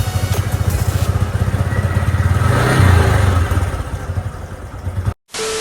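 Motorcycle engine running on freshly changed oil, with a fast low firing pulse and a brief rev about halfway through. It cuts off suddenly near the end, and a short steady tone with hiss follows.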